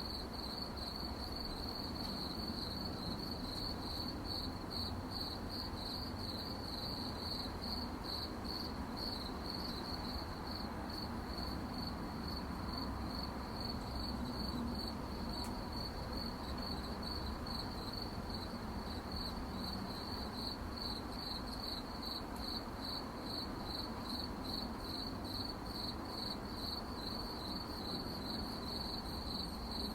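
Crickets chirping at night in an even, unbroken rhythm of high pulsed chirps, over a low steady background rumble.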